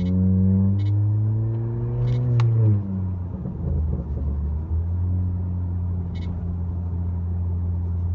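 Honda Accord with its resonator and muffler deleted, heard from inside the cabin. The engine climbs in pitch under acceleration for about two and a half seconds, then drops off with a rough, uneven stretch as the throttle comes off. It then settles into a steady low drone.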